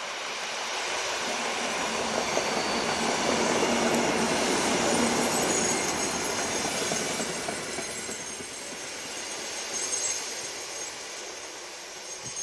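EN57FPS electric multiple unit passing close by: a rush of train and wheel noise that swells to a peak about four seconds in and then fades as it draws away, with a thin high squeal from the wheels.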